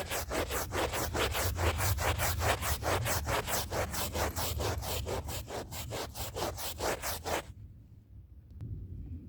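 Scrub brush worked back and forth over a rug's pile in fast, even strokes, about five a second, then stopping about two seconds before the end, leaving a faint low hum.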